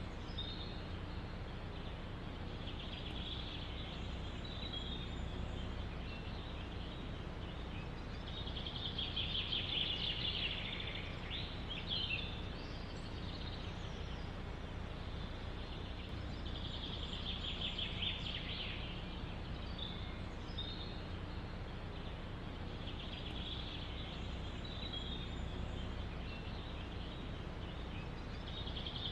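A songbird singing a rapid trilled phrase about every six seconds, with a short sweeping call in between, over a steady low rumble of wind in the forest.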